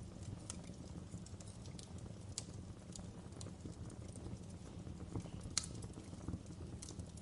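Wood fire crackling in a fireplace: irregular sharp pops and snaps over a steady low rush of flame, with one louder pop late on.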